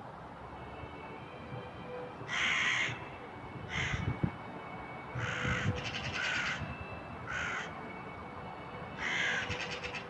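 Crows cawing, about six harsh calls spaced over several seconds, two of them breaking into a rattle at the end.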